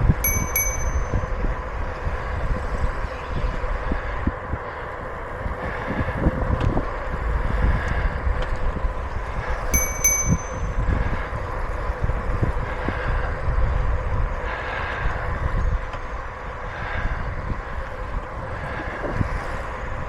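Bicycle bell rung with two quick dings near the start and again about ten seconds in, over steady wind noise on the microphone and tyre rumble from riding on pavement.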